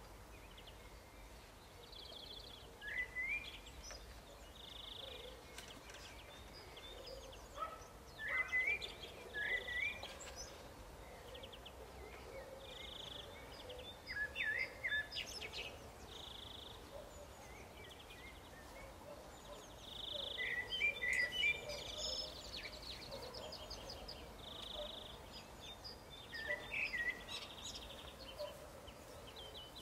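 Songbirds singing and calling, with quick chirps and rising notes coming in clusters and one short, even note repeated every two to three seconds.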